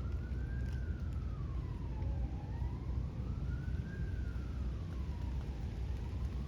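Emergency-vehicle siren in a slow wail, its pitch rising and falling twice, over a steady low rumble.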